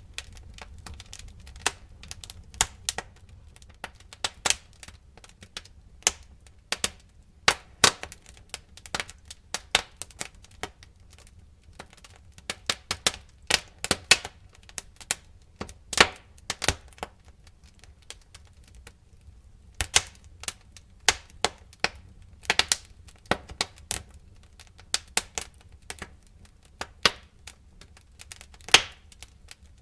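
Fire crackling: irregular sharp pops and snaps, at times several in quick succession, over a faint low rumble.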